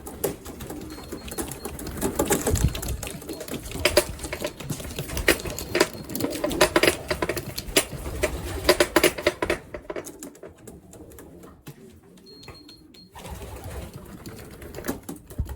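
Pigeons' wings clattering in a rapid flutter as birds flap and land at the loft, dense for about nine seconds and then dying down, with a few more flaps near the end.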